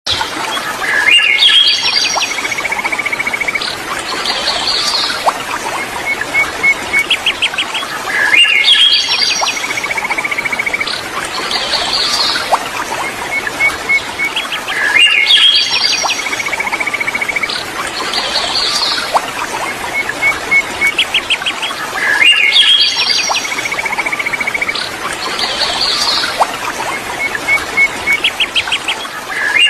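Songbirds chirping over the steady rush of river water: rising chirps, a dry trill and quick runs of notes, the same sequence of calls coming round again about every seven seconds.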